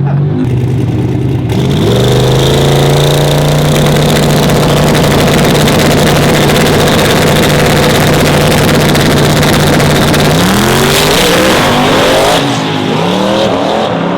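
A race truck's engine running hard at a steady high pitch for about eight seconds, with a thin high whine above it. Near the end the pitch swings up and down.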